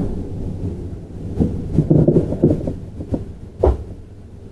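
Running noise inside a JR 701-series electric train car: a low rumble with irregular knocks from the wheels on the track, growing quieter, with one sharper knock near the end.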